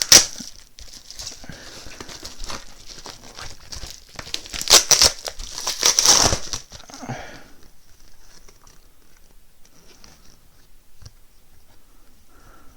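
The S Pen's packaging being ripped open by hand: crinkling and tearing, with the loudest rips right at the start and again about five and six seconds in, then quieter handling of the package.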